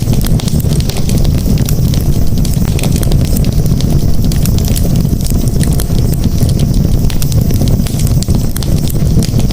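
Campfire burning: a steady low rumble with many small crackles and pops.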